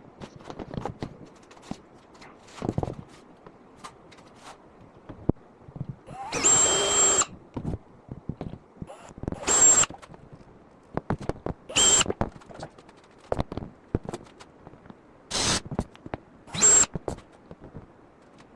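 Cordless drill run in about five short bursts while drilling mounting holes, the first burst the longest, with a steady high whine in each. Small clicks and knocks of handling come between the bursts.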